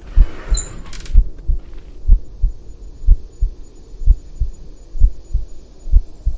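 Heartbeat, low double thumps (lub-dub) repeating slowly and evenly about once a second. A brief rustle and a click in the first second.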